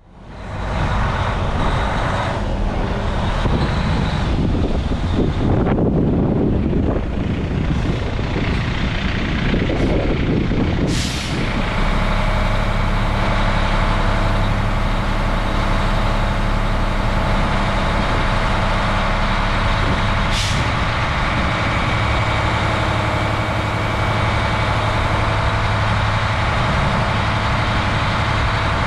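Detroit Diesel DD13 inline-six diesel engine of a Freightliner 114SD truck running steadily at idle. Two short hisses of air come about eleven and twenty seconds in.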